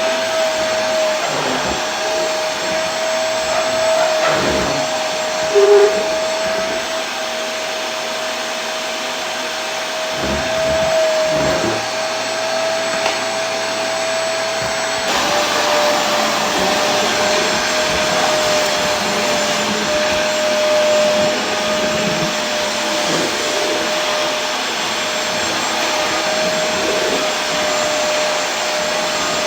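Vacuum cleaner running continuously: a steady rush of air with a constant motor whine. A brief louder blip comes about six seconds in.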